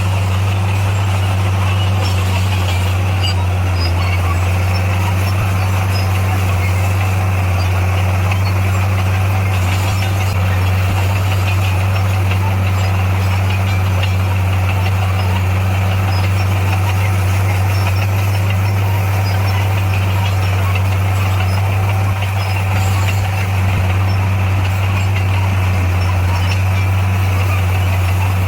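Bulldozer's diesel engine running steadily, a low drone that holds at one pitch throughout.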